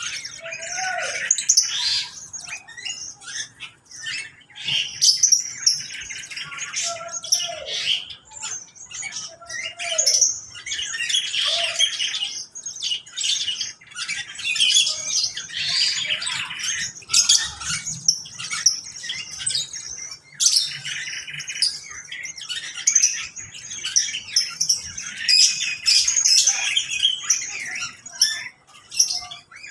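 A mixed flock of aviary birds, lovebirds among them, chirping and chattering continuously in a dense overlapping din, with a few short falling calls in the first ten seconds.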